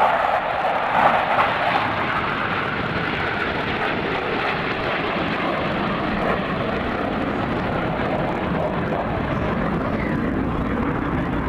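Airplane engine noise from an airshow flypast: a steady rushing drone that is loudest about a second in, then holds even.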